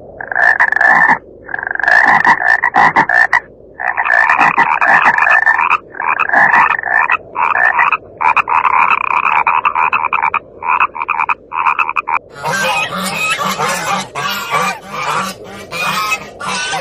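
Frogs or toads calling in long rasping trills, each lasting one to a few seconds with short gaps between. About twelve seconds in, this gives way to honking waterfowl calls.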